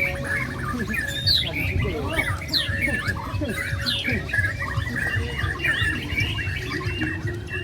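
Many caged songbirds singing at once at a bird-singing contest, a dense tangle of overlapping chirps, whistles and trills, over a low crowd rumble.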